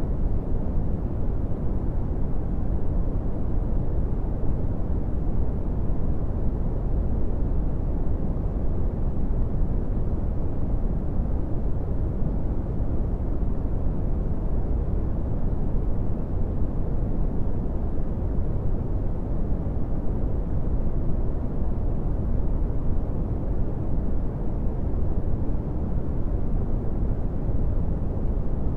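Brown noise: a steady, deep rumbling hiss, loudest in the bass and falling away toward the treble, with no change.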